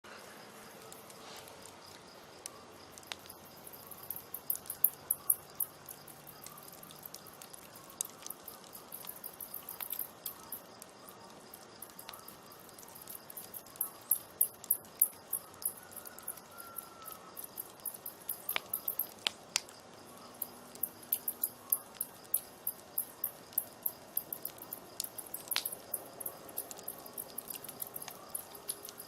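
Open wood campfire crackling, with runs of fast, high-pitched ticking and a few single sharp pops.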